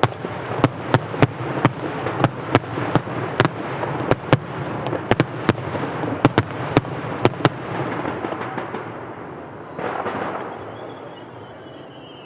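Aerial fireworks going off: a rapid run of sharp cracks and bangs over dense crackling, thinning out after about eight seconds. A faint high whistle is heard near the end.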